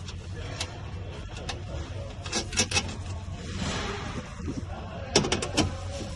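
Scattered sharp clicks and knocks with some rubbing, as of parts being handled during reassembly, over a low steady hum. There is a cluster of clicks about two and a half seconds in and another just after five seconds.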